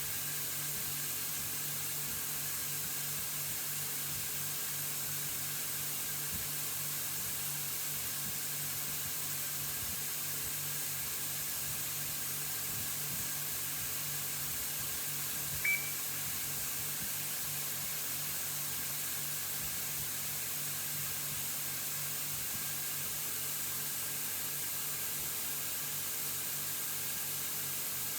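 Steady hiss and low hum of a Mazak INTEGREX 400-IV multitasking CNC lathe running during its tool eye (tool presetter) demonstration, with one short high beep a little past halfway.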